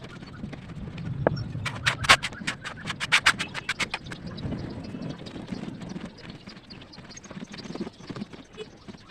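A rapid run of crisp crunches, about six a second, lasting a couple of seconds from near the two-second mark, over a low rumble.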